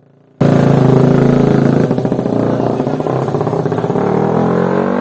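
Motocross motorcycle engine running loud and close, cutting in abruptly about half a second in, its pitch rising slightly near the end.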